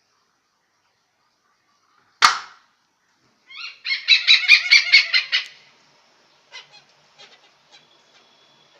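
Hornbill calling: one loud, harsh squawk, then about a second later a fast run of loud pitched calls, followed by a few fainter short notes.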